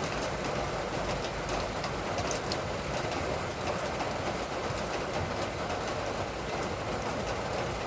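Steady rain falling, an even hiss with scattered clicks of individual drops striking close by.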